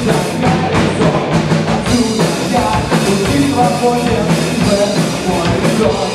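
Rock band playing the song live, drum kit driving a steady beat under amplified instruments in an instrumental passage before the vocals come in.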